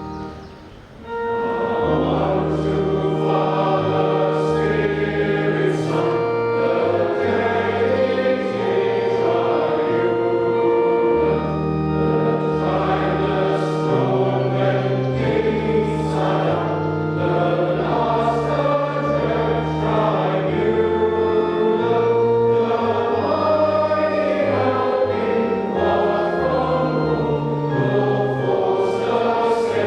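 A hymn sung by choir and congregation with organ accompaniment, held chords moving over a steady bass line, picking up again after a short pause about a second in.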